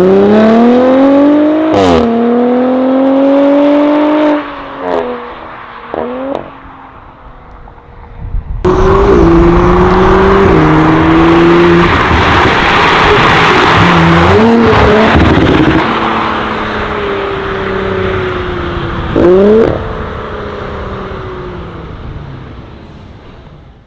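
Audi RS5 B9's twin-turbo V6 through a Fi valvetronic cat-back exhaust, accelerating hard with rising revs and an upshift about two seconds in. It lifts off with a couple of short blips, then makes a second loud full-throttle pull with stepped upshifts that fades away near the end, with one brief rev about three-quarters of the way through.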